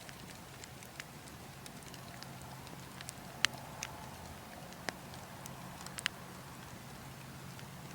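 Burning logs crackling, with scattered sharp pops over a steady low background rush. The loudest pops come about three and a half seconds and six seconds in.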